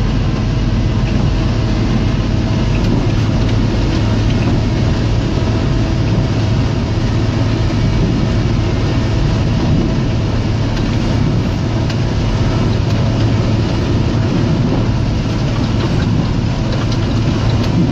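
John Deere 624J wheel loader's diesel engine running steadily under load while plowing snow, heard from the machine.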